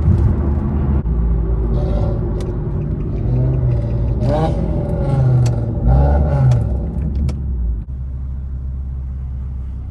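Infiniti G37's modified V6 exhaust heard while driving, its engine note rising and falling under throttle in the middle, then dropping to a steady lower drone shortly before the end.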